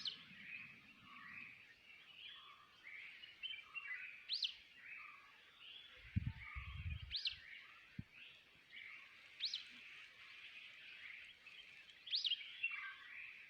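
Wild birds calling: one bird repeats a sharp, quickly rising and falling whistled note about every two to three seconds, over a steady chorus of chirps from other birds. A brief low rumble comes about six seconds in.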